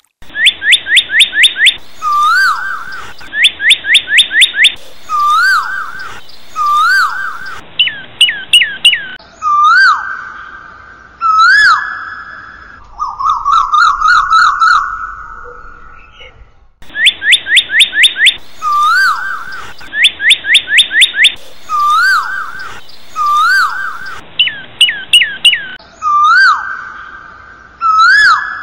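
Bird song in loud whistled phrases: fast runs of downward-sweeping notes, each followed by short rising chirps, and a buzzy trill. The same sequence of phrases plays again about 17 seconds in.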